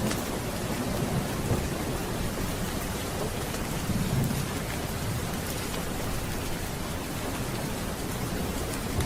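Steady rain, with a low rumble of thunder swelling about four seconds in.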